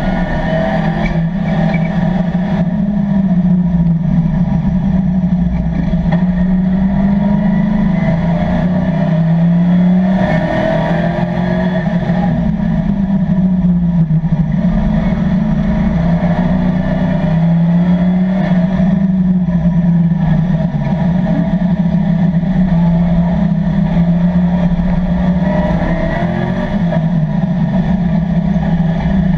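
Chevrolet Camaro race car's LS3 V8 at racing speed, heard from inside the cabin, its pitch climbing under acceleration and dropping back again several times through the corners.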